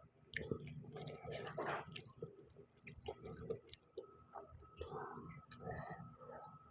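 Close-up chewing of spicy noodles, with irregular wet smacks and small mouth clicks.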